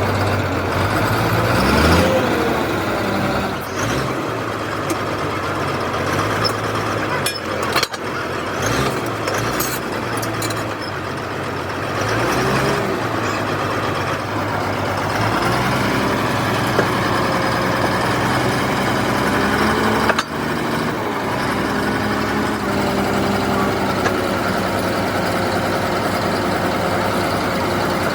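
Heavy diesel engine running steadily, its pitch wavering slightly, with a few sharp metallic knocks around eight seconds in and again near twenty seconds.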